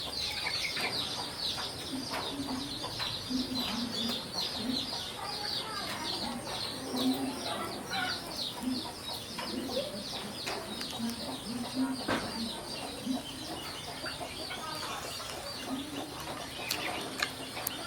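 Chickens clucking, with rapid high chirping that is densest in the first several seconds and a few sharp clicks.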